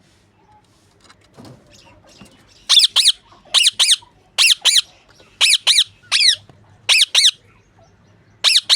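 Lovebird calling in loud, shrill double squawks, one pair about every second, starting a little over two seconds in.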